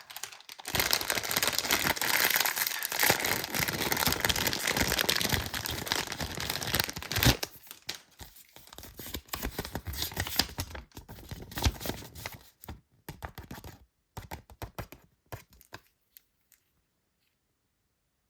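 Toy packaging being torn open and crinkled: a dense run of tearing and crinkling for about seven seconds, then scattered crackles that thin out.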